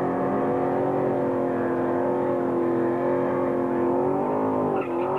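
Drag-racing car's engine held at high, steady revs during a burnout, spinning its rear tyres into smoke. The revs dip briefly near the end and then climb again.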